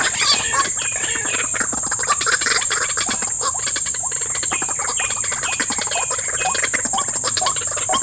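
White-breasted waterhens calling over and over in quick, repeated croaking phrases, over a steady high-pitched insect drone.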